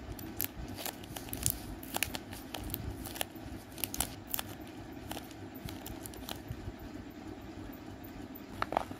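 Taped paper squishy being squeezed and pressed by hand, its tape-and-paper skin crinkling in irregular crackles and clicks over a steady low background noise.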